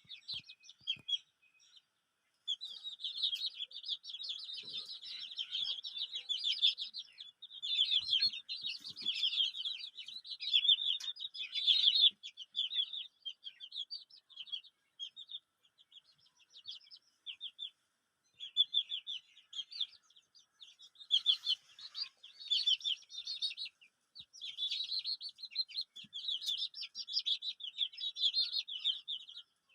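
A group of chicken chicks peeping, many short high peeps overlapping in a dense chorus that thins out briefly a couple of times.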